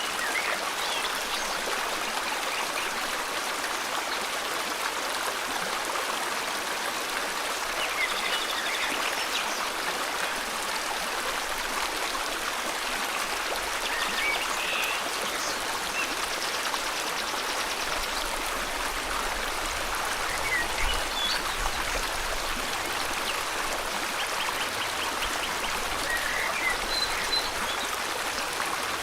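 River water flowing steadily, a constant rushing wash, with a few short, high bird chirps and trills now and then above it.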